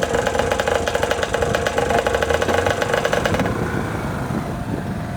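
Two-stroke dirt bike engine running hard at steady high revs, then dropping away abruptly about three and a half seconds in.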